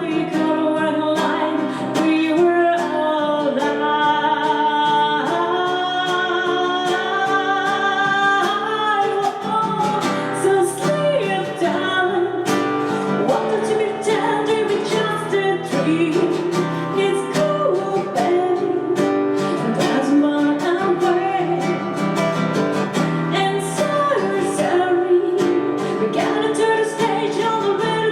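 A solo voice singing a slow pop ballad over strummed acoustic guitar chords.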